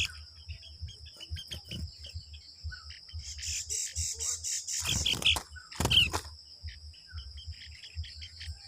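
Small birds chirping in short repeated calls over a steady high-pitched tone, with two loud brief noises about five and six seconds in.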